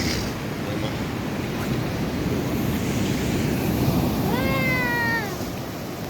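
Sea surf and wind noise rushing steadily. About four seconds in, a single drawn-out high call lasting about a second rises over it, its pitch dropping at the end.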